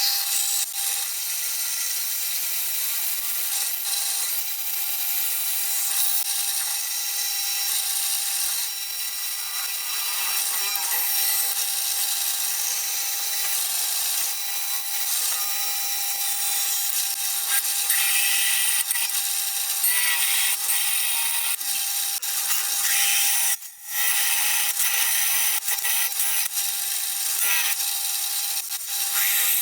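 An electric power tool runs steadily under load, with the high hiss of cutting or abrading material over a steady motor whine. It stops for a moment about 24 seconds in, then carries on.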